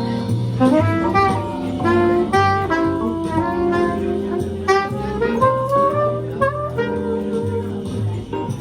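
Saxophone playing a melody of short, quickly changing notes, with lower sustained notes underneath.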